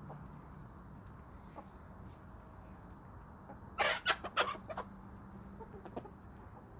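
Domestic chickens clucking, with a quick cluster of sharp, loud sounds about four seconds in.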